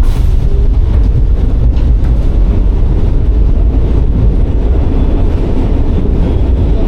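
New York City Subway train running, a loud, steady low rumble without a break.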